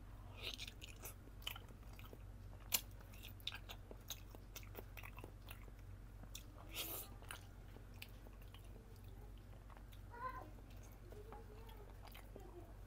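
Close-miked chewing and biting of a soft boiled vegetable chunk from chicken tinola: faint wet mouth smacks and clicks, with one sharper click about three seconds in, over a low steady hum.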